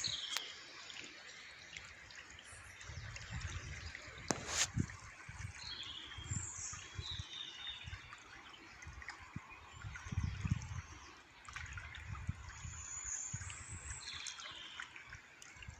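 Water trickling and splashing steadily, with small birds chirping now and then. There is a sharp click about four and a half seconds in, and a few low rumbles come and go underneath.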